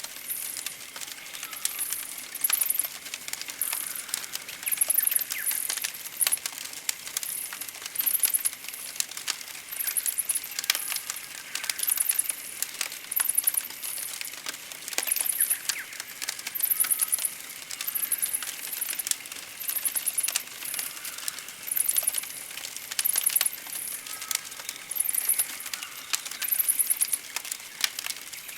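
Campfire crackling with many sharp clicks, under short high trills that repeat about every one to two seconds.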